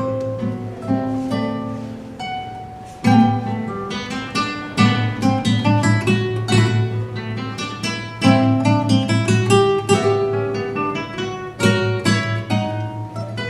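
Acoustic guitar played solo, a quick run of plucked notes with strummed chords striking out about three seconds in and again about eight seconds in.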